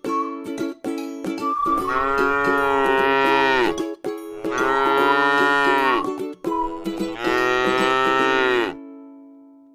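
Cow mooing three times in long, drawn-out calls, each lasting about one and a half to two seconds. Everything cuts off abruptly near the end.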